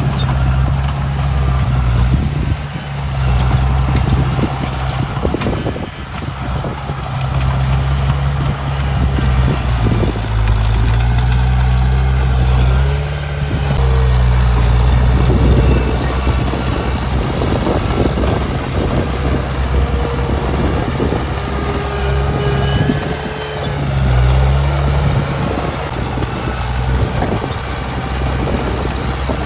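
Heavy diesel earthmoving machinery working, its engine note rising and falling as the load changes, with frequent metallic clanks and knocks.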